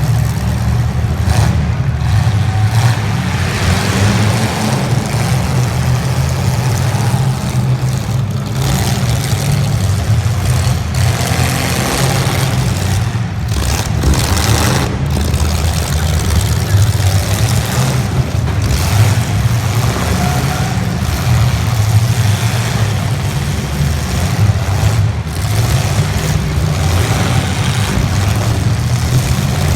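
Engines of 1980s stock demolition-derby cars running and revving together, a loud, steady low drone.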